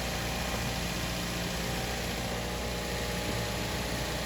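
Toyota Corolla GLI's four-cylinder petrol engine idling steadily.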